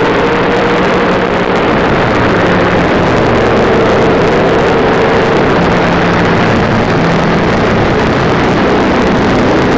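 Race car engine running at speed on track, loud and steady, its pitch rising and falling slightly.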